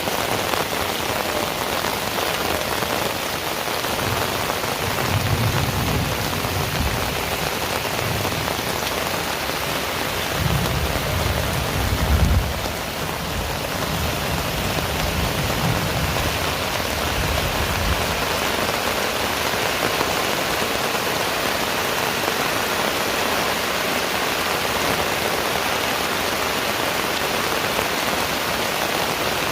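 Heavy rain pouring steadily, with a long low roll of thunder rumbling in from about four seconds in, loudest around twelve seconds, and fading out by about eighteen seconds.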